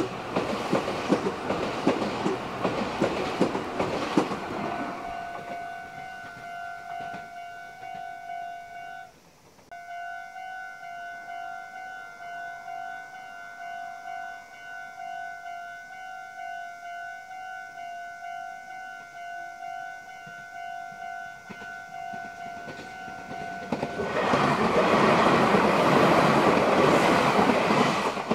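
Meitetsu electric trains passing at speed with wheel-on-rail clatter. The first fades over the first five seconds, and a second comes through loud in the last four seconds. In between, a pulsing ringing tone repeats about twice a second.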